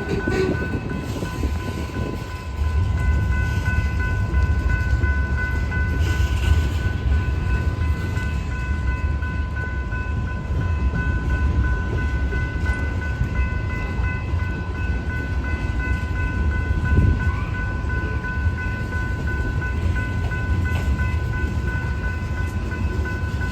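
Freight train rolling past at slow speed: a steady low rumble from the cars, with a thin, steady high-pitched ringing tone held over it.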